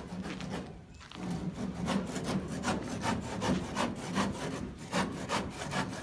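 Hand saw cutting through wood in a steady rhythm of back-and-forth strokes, about three a second, after a brief pause about a second in.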